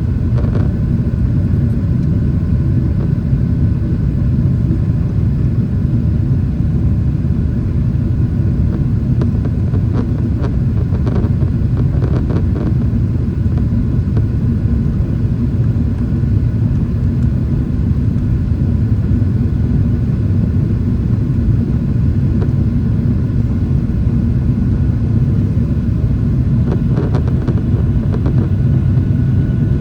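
Boeing 777-300ER airliner's GE90 engines and airframe: a loud, steady low rumble that holds an even level with no rise or fall.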